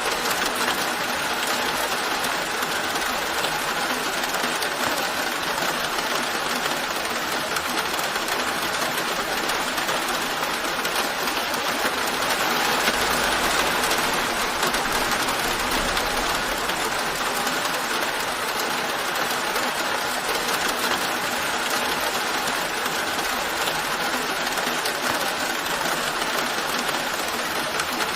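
Steady rain falling, an even hiss with fine pattering, swelling slightly about halfway through.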